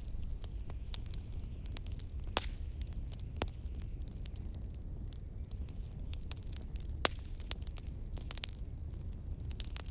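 Wood fire crackling in a fireplace, with irregular sharp pops, the loudest about seven seconds in, over a steady low rumble of blizzard wind.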